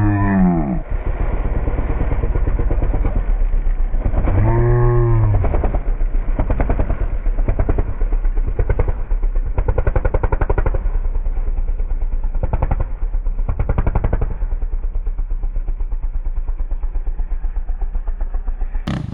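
An ATV engine revs up and back down twice, once right at the start and again about four to five seconds in. The rest of the time it runs at low revs with a rapid, even pulsing beat, opening up briefly a few times.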